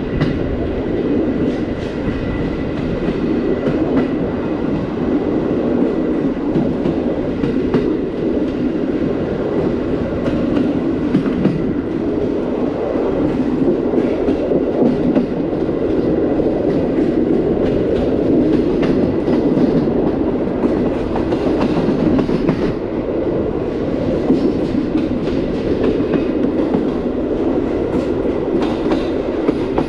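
Passenger train carriage wheels rolling on the rails at speed: a steady rumble with scattered knocks and taps from the track.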